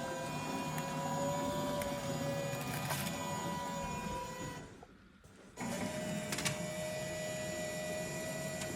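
Speedy Eats gen3 automated microwave machine running with a steady motor hum and whine. It stops for about a second around five seconds in, then starts again at a slightly higher pitch.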